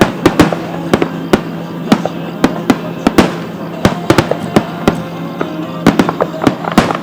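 Aerial fireworks bursting in quick succession: many sharp bangs and cracks, a few each second, some with a short ringing echo.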